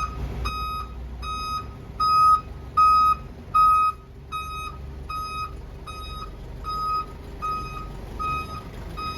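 A truck's reversing alarm beeping at an even pace, about three beeps every two seconds, over the low rumble of the engine as the truck backs up. A few beeps near the middle are louder.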